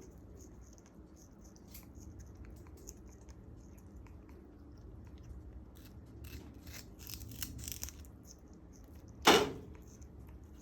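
African grey parrot chewing and tearing at sugarcane with its beak: faint crunching clicks, with a busier run of crackling about two-thirds of the way through. Near the end comes one sudden loud sound, much louder than the chewing.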